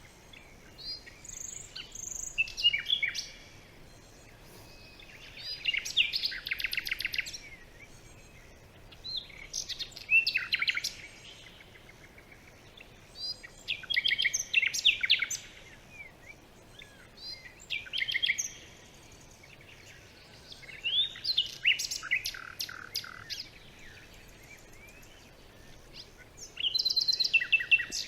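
A songbird singing the same short, fast trilled song phrase over and over, about one phrase every four seconds, over a faint steady background hiss.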